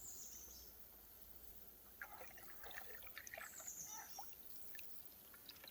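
Faint birdsong: a high, falling whistled phrase at the start and another about three and a half seconds in, with a patch of small trickling, dripping sounds of water in between.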